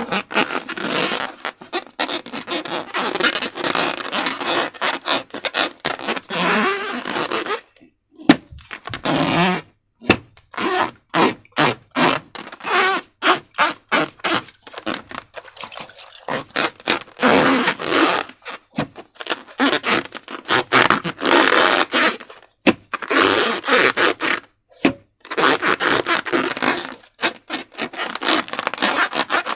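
Slime being squeezed and worked by hand, giving wet squelching and crackling, broken in places into quick runs of short squishes with brief pauses.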